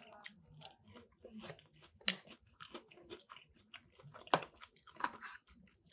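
Close-up chewing of buffalo chicken mac and cheese, soft wet mouth sounds, with a few sharp clicks between, the loudest about two seconds in and again past four seconds, as a metal fork works in the plastic takeout bowl.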